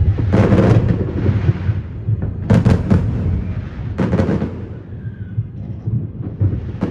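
Aerial fireworks exploding: four clusters of sharp bangs, about a second and a half apart, each followed by crackling, over a continuous low rumble of further bursts.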